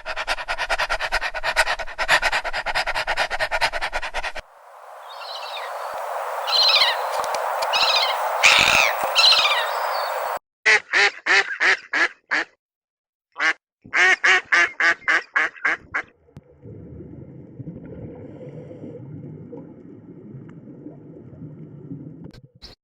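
A run of animal-sound clips: a fast series of rattling calls, then bird calls over a hiss, then two runs of quick duck quacks at about five a second, and near the end a low steady rumbling noise.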